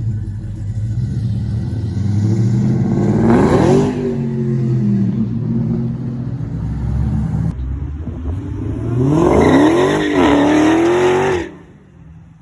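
Car engine running and revving up twice, with the second rise in pitch the longer and louder; the engine sound drops away abruptly near the end.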